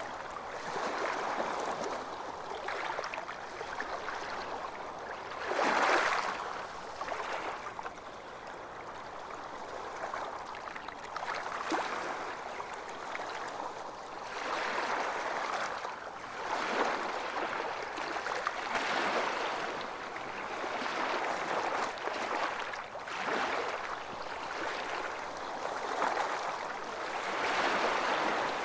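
Ocean waves breaking and washing up on a beach, a continuous rush of surf that swells and recedes every few seconds, the strongest break about six seconds in.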